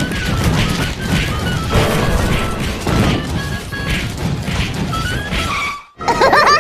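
Cartoon slapstick fight sound effects: a continuous jumble of crashes and thwacks over music, stopping abruptly near the end and giving way to shrill, wavering sounds.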